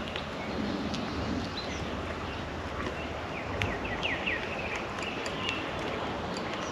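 Wild birds calling outdoors: a quick run of short, high chirps about halfway through, over a steady rushing background with a few sharp clicks.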